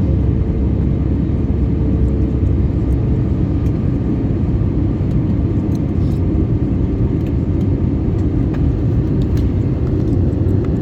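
Steady airliner cabin noise inside an Airbus A321neo: a constant low rumble of engines and airflow, with a faint steady hum above it.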